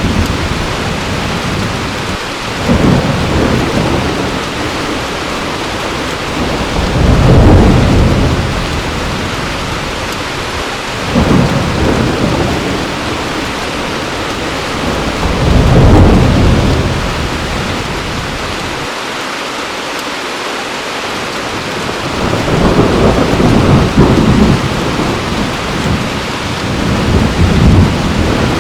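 Heavy rain falling steadily, with low rolls of thunder rumbling up and fading again every few seconds, about six times.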